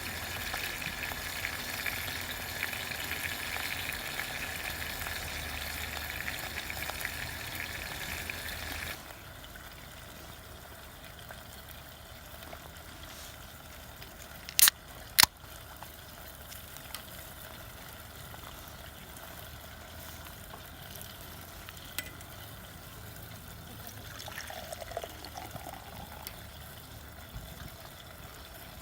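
Steady hissing of camp cooking that stops abruptly about nine seconds in, leaving a quieter steady background. Midway, two sharp clicks come about half a second apart.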